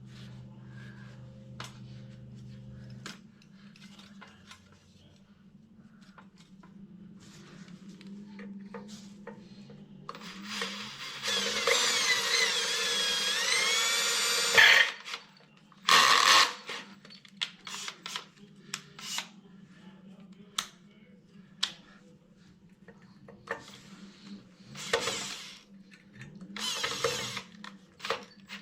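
Power drill boring into the steel of a grader blade. It runs in one loud stretch of about four seconds midway, with a squeal that wavers in pitch, then in a few short bursts, with clicks and knocks of handling between them.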